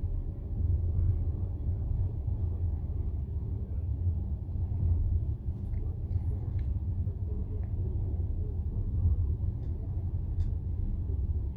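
Passenger train carriage rolling along the track, heard from inside the car: a steady low rumble of the wheels and running gear, with a few faint light clicks.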